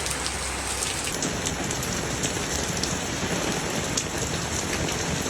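Heavy rain pouring down and splattering on surfaces, a steady dense hiss thick with the ticks of single drops.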